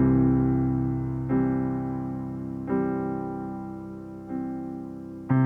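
Background music: slow piano chords, each struck and left to fade, a new chord about every one and a half seconds.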